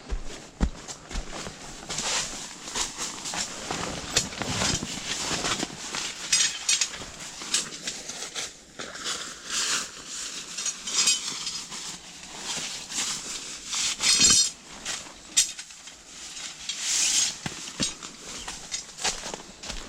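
Irregular rustling and clicking of tent fabric and gear being handled, with a few short fast rasps.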